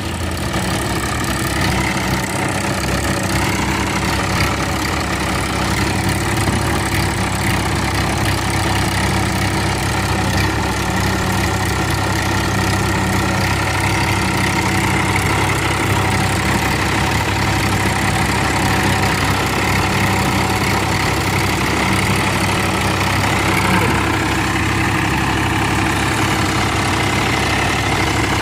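Massey Ferguson tractor's diesel engine running at a steady speed.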